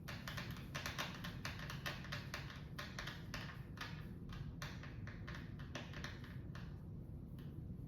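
A run of soft, irregular light clicks and taps, thinning out after about five seconds.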